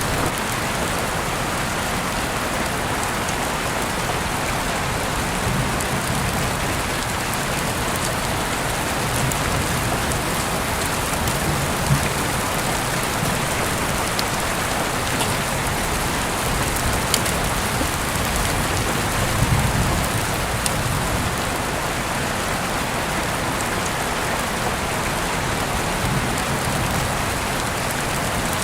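Heavy rain falling steadily, with individual drops ticking sharply on a surface over the constant hiss, and a couple of brief louder low swells about twelve seconds and twenty seconds in.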